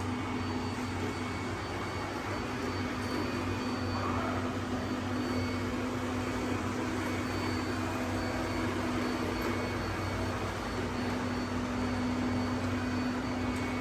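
Robot vacuum cleaners running, a steady whirring hum of suction fans and brushes with a constant low tone underneath.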